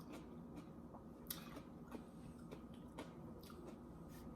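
Faint, scattered small clicks and ticks, a handful spread over a few seconds, against quiet room tone.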